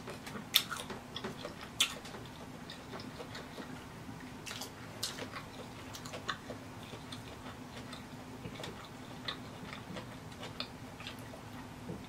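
Close-up mouth sounds of a person chewing lobster meat: scattered wet clicks and smacks, the sharpest about half a second and two seconds in, over a faint steady hum.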